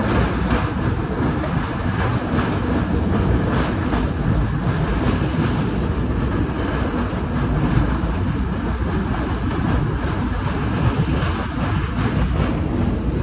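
Indian Railways express train running along the track: a steady rumble of the coaches and wheels on the rails.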